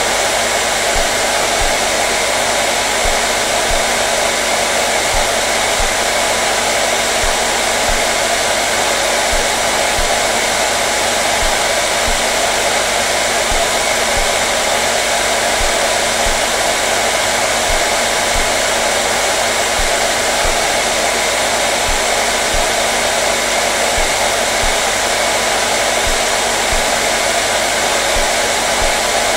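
Hair dryer running steadily: an unbroken, even rush of air with a constant motor hum underneath.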